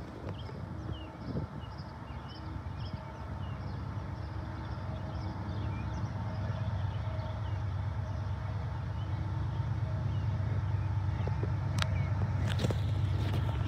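Approaching diesel freight locomotives: a low engine rumble that grows steadily louder, with a few sharp clicks near the end.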